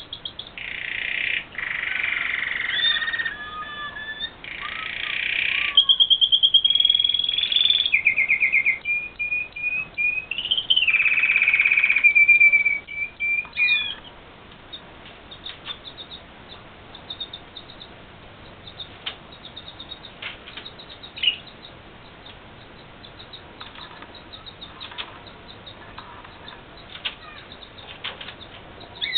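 Red factor canary singing: a long varied song of rapid trills, rolling phrases and held whistled notes for about the first half, then dropping to scattered short chirps and clicks.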